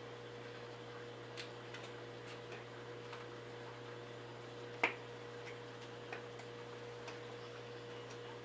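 Quiet kitchen room tone: a steady low hum with scattered faint ticks and one sharper click about five seconds in, while spices are added to a pot of chili.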